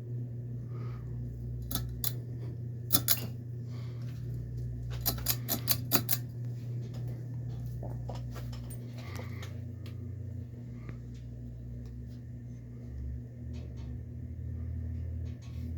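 Westinghouse InstaLock 42-inch ceiling fan running with a steady motor hum. Sharp clicks come in small clusters about two to three seconds in and again about five to six seconds in.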